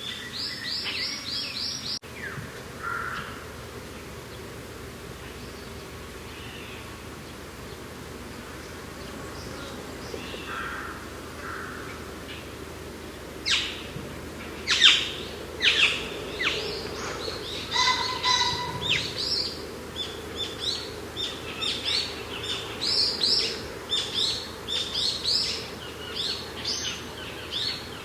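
Wild birds chirping and calling over a steady low wind. The calls are sparse at first, then from about halfway on they become a dense run of short, sharp, rapidly repeated chirps.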